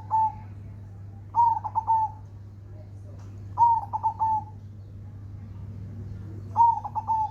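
Zebra dove (perkutut) cooing its song three times, about every two and a half seconds. Each phrase is a quick run of short notes ending on a longer held coo, over a steady low hum.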